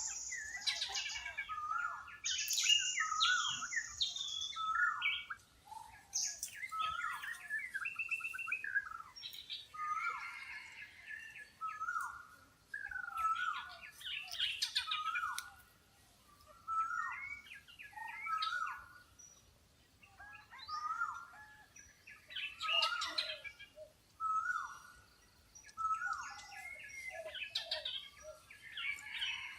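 Several birds singing and calling at once: a busy chorus of short chirps, many of them repeated quick downslurred notes, with a held high whistle in the first few seconds.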